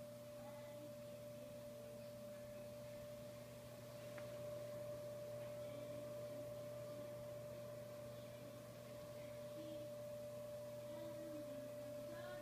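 Fireplace-style electric fan heater running: a steady low hum with a steady mid-pitched whine over a faint fan hiss, growing slightly louder about four seconds in.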